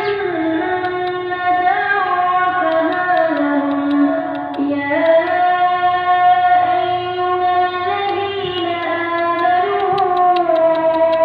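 Background music: a woman singing a slow melody with long held notes that slide from one pitch to the next.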